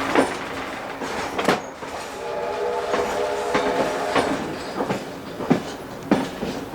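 Carriage wheels knocking irregularly over rail joints as the train runs behind steam locomotive 3801. About two seconds in, a steam whistle sounds for about two seconds.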